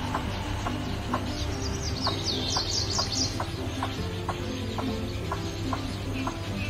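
Quick, high bird chirps in a cluster between about 1.5 and 3 seconds in, over background music with a steady beat of about two to three strokes a second.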